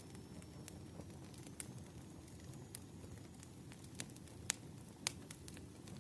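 Wood fire crackling: a steady low rumble of burning logs with scattered sharp pops, the loudest two about four and a half and five seconds in.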